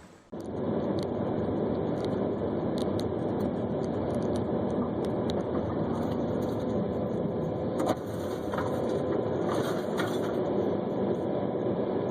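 Steady car engine and road noise recorded by a dashcam, with scattered light clicks and a sharper knock about eight seconds in.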